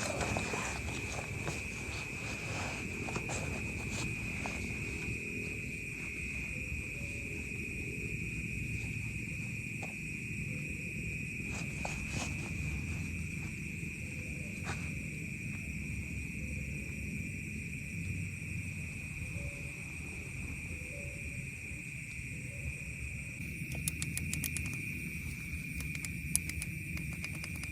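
Insects, such as crickets, trilling steadily in one high, unbroken chorus, over a low rustling noise, with a few sharp clicks near the end.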